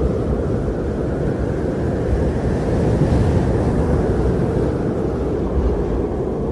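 Strong blizzard wind blowing in a steady, low rush without gusts or breaks.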